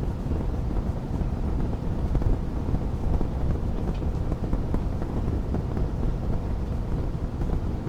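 Fire burning in a fireplace, a steady low rumble with only a faint crackle about halfway through.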